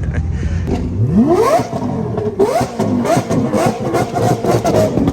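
A sports car engine being revved hard several times in quick succession, each rev climbing sharply and dropping back, with crackling from the exhaust between the revs.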